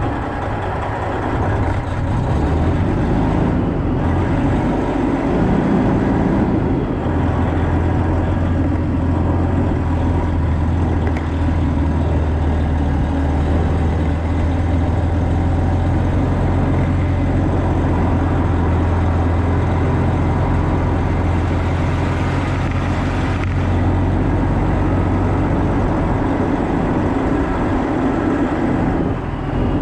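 Semi truck's diesel engine running steadily, a deep hum that grows stronger about seven seconds in and eases near the end.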